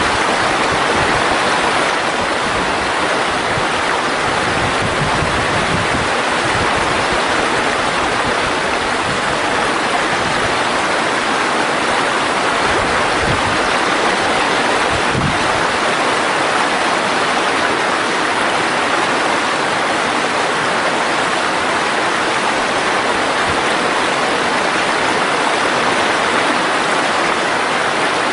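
Mountain stream water rushing steadily over rocks, with a little low rumbling during the first half.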